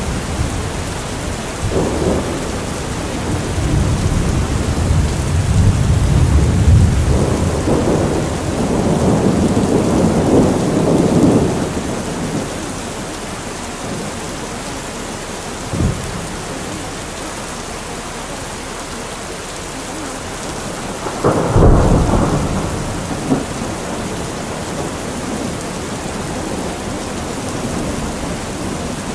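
Steady rain with rolling thunder: long rumbles through the first dozen seconds, a short sharp crack about 16 seconds in, and a louder clap around 22 seconds.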